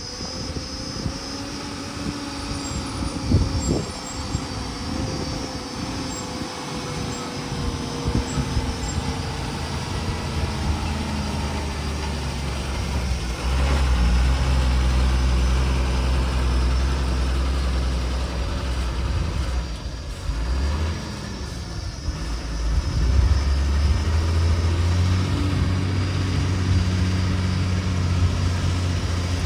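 Heavy diesel engine of a working vehicle running under load. It grows louder about a third of the way in, eases off briefly about two-thirds through, then picks up again.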